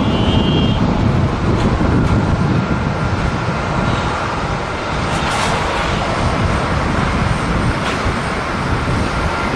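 Jet airliner engine noise, a loud steady rumble, heard with strong gusty wind on the microphone.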